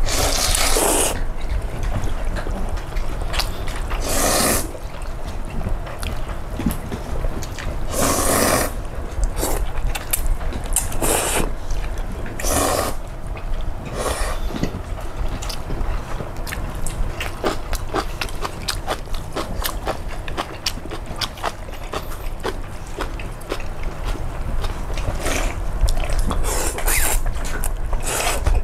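Eating cold soybean-broth noodles: loud slurps of noodles every few seconds, with a cluster near the end, and chewing with small clicks of utensils against the bowl in between.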